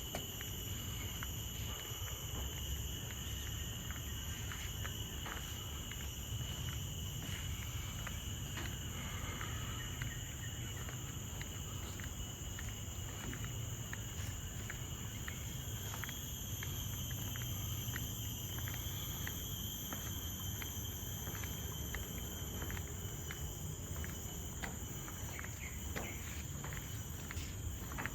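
Steady chorus of forest insects, several high-pitched buzzing tones held without a break, over a low rumble.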